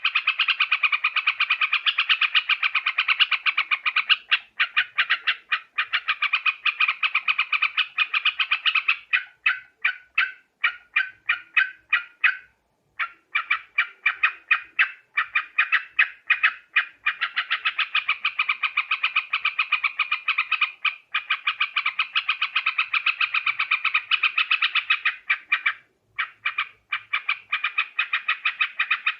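Yellow-vented bulbul (trucuk) calling in fast, dense chattering runs. About a third of the way through, the chatter thins into a string of separate notes, breaks off briefly, then resumes at full pace.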